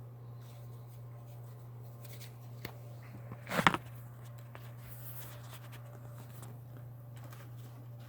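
A steady low hum with a single short rustle about three and a half seconds in, from a tarot card being handled.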